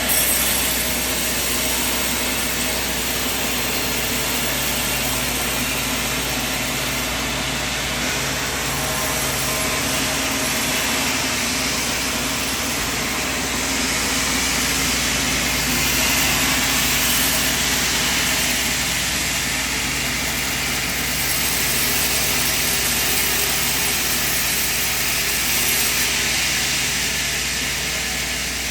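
Sawmill machine running steadily: a constant motor hum under an even, full hiss that swells slightly now and then.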